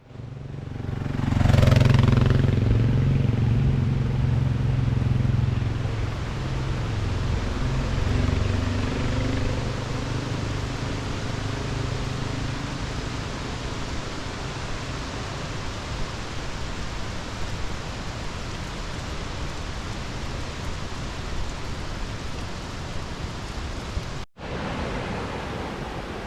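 Steady rush of a roadside waterfall, with a motor vehicle passing close by on the highway about two seconds in, its engine hum fading away over the next several seconds. The sound cuts out briefly near the end.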